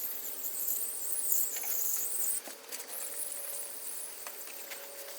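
Water spraying onto a furnace's evaporator coil to rinse off the coil cleaner, a steady hiss that cuts out briefly about halfway and then resumes more softly.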